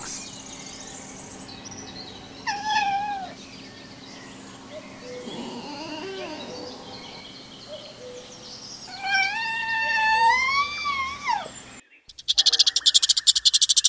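Fox calling with cat-like cries: a short falling cry about 2.5 s in, then a long rising, wavering whine from about 9 to 11.5 s. Near the end it cuts to a fast train of high chirps.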